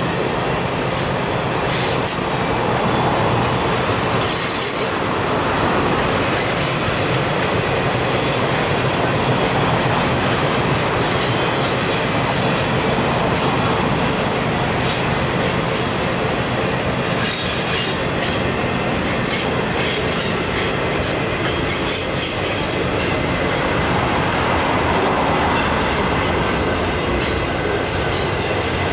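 Circus train cars rolling past on a curve: a steady rumble of steel wheels on rail, with high wheel squeal coming and going over and over as the flanges grind through the curve.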